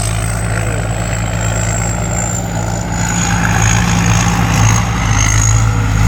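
Diesel engine of a combine harvester running steadily: a low engine hum with a thin high whine above it that drifts slightly lower. It grows a little louder about three seconds in.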